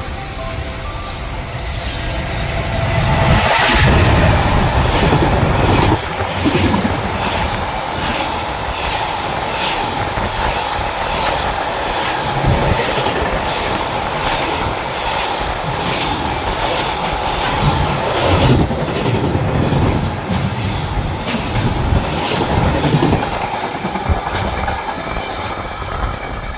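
A train running past on the rails. Its wheels click over the rail joints in a steady clickety-clack, with a steady whine underneath, loudest about three to six seconds in.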